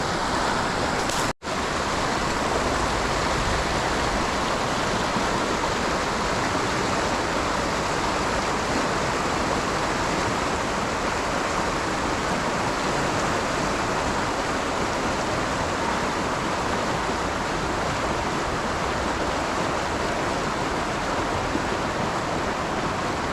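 River current rushing steadily, a dense even hiss of moving water. The sound drops out for a split second about a second and a half in.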